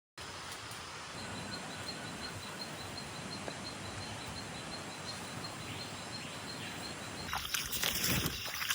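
Rainforest ambience: a steady hiss with an insect's high, evenly pulsing chirp, and a louder burst of rustling about three-quarters of the way through.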